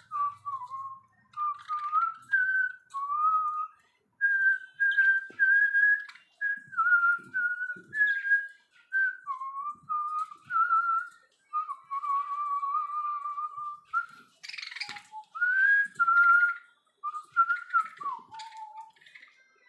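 Clear whistling in a long run of short notes, each under a second, sliding up and down in pitch with brief gaps between them. About three quarters of the way through, a short harsher sound cuts in.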